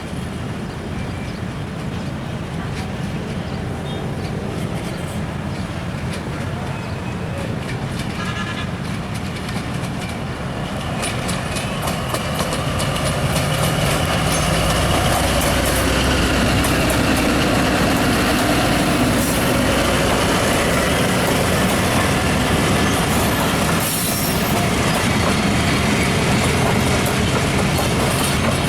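A train passing along the track close by, its wheels running over the rails; the sound swells about twelve seconds in and stays loud.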